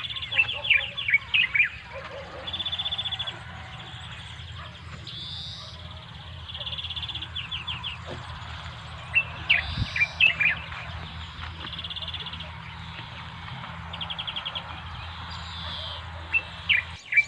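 Small birds chirping repeatedly, with quick chirps and short rapid trills every few seconds, over a low steady rumble.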